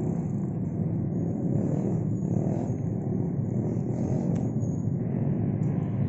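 A vehicle on the move: a steady engine and road rumble with no change in speed.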